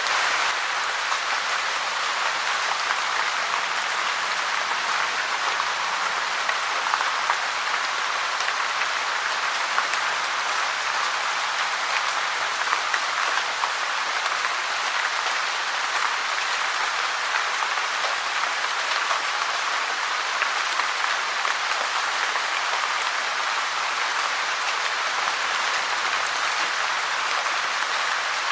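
Steady rain falling, a dense even patter of drops with a few sharper drops standing out now and then.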